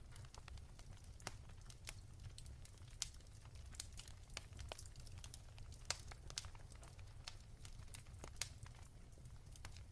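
Wood fire in a fireplace crackling softly, with scattered irregular pops and snaps over a low steady rumble.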